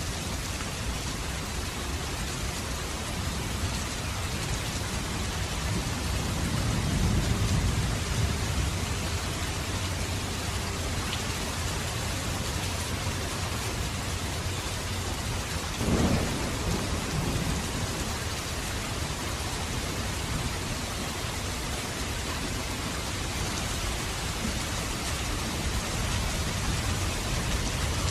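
Steady rain falling, with a low rumble of thunder swelling from about six seconds in. A brief sharp thump comes a little past halfway through.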